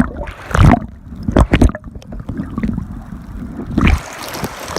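River water splashing and sloshing around an inner tube riding through small waves, with several loud, short splashes or knocks against the phone.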